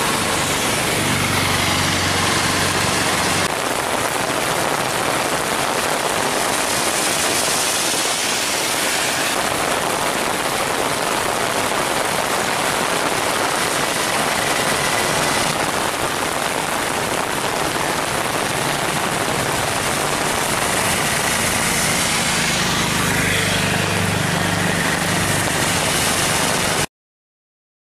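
Heavy rain pouring steadily and water hissing on the road. A vehicle engine runs under it at the start and again near the end. The sound cuts off abruptly shortly before the end.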